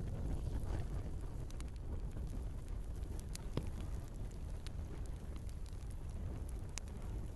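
Wood fire burning in a fireplace: scattered sharp crackles and pops over a steady low rumble, with one louder pop near the end.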